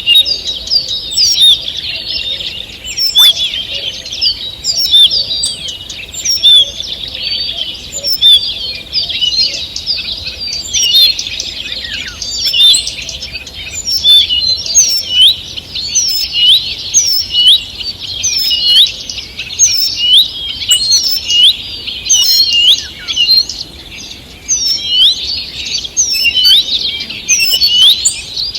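Morning chorus of many songbirds: dense, overlapping chirps and whistled phrases, with no single bird standing out.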